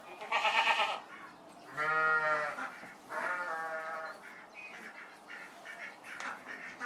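Bleating from a farm animal: three drawn-out calls in the first four seconds, the first one quavering, then fainter, broken calls.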